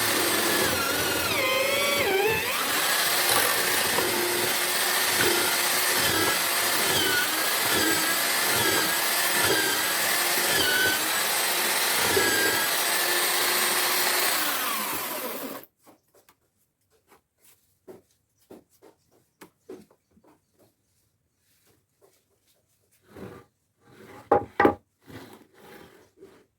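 Homemade drill-powered mortiser running and boring into wood, its motor pitch dipping and recovering as it loads up in the cut. It stops abruptly about halfway through, leaving scattered light taps and a few louder knocks near the end.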